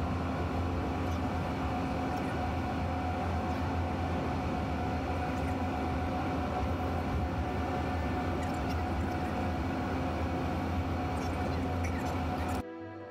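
Steady, loud mechanical rumble with a strong low hum and a few constant tones, like a vehicle running. It starts abruptly and cuts off suddenly near the end.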